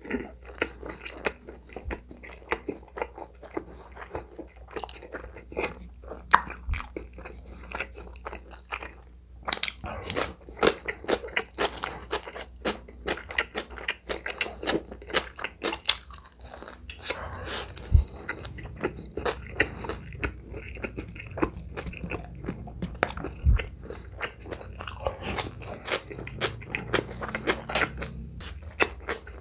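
A person chewing a mouthful of shrimp pizza, with many sharp crunches close to the mouth. A couple of low thumps come in the second half.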